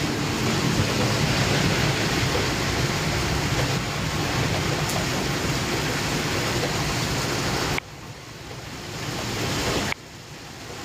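Heavy thunderstorm rain pouring down, a steady rushing hiss. It drops sharply in level about eight seconds in and again near the end.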